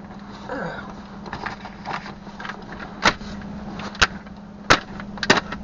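Hands hitting and swinging at a spider that jumped in through an open car window: sharp slaps and knocks against the inside of the car, four loud ones from about three seconds in, over a steady low hum.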